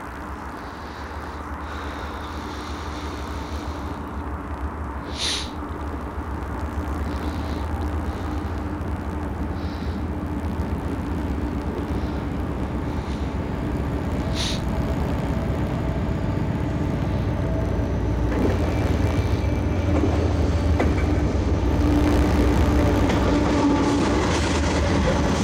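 CSX freight train cars rolling past, a steady low rumble that grows gradually louder, with a few faint clicks and a thin high wheel squeal coming in during the second half.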